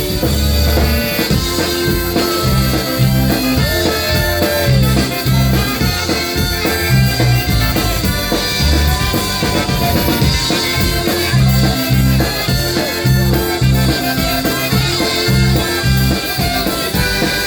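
Live polka band with trumpet, saxophone and clarinet playing a pop song without vocals. Drum kit and bass keep a steady beat.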